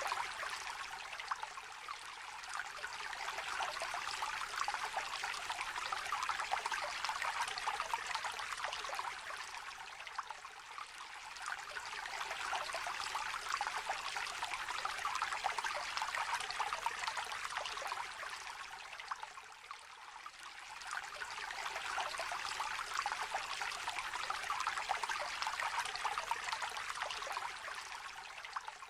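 Shallow river trickling and burbling over stones: a steady babble of water that swells and eases every nine seconds or so.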